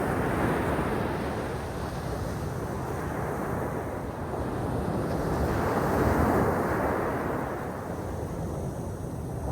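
Sea waves breaking and washing on the shore, with two swells in loudness, one about a second in and a stronger one around six seconds in. Wind rumbles on the microphone.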